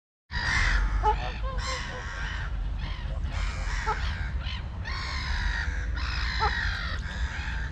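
Animal calls: a run of long, harsh calls with short rising squeaks between them, over a steady low rumble.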